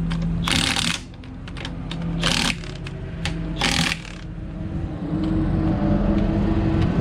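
Impact wrench run in short bursts of about half a second, three times in the first four seconds, spinning lug nuts during a wheel change. Race car engines run underneath, swelling in the second half.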